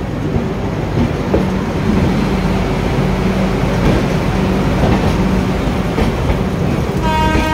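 Passenger train running, a steady rumble with wheel clatter on the rails, heard from aboard the moving coach. A train horn starts sounding near the end.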